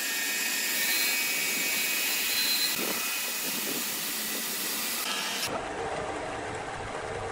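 Steady machinery noise: a dense high hiss with faint steady whining tones. About five and a half seconds in it changes abruptly to a duller, lower machine rumble.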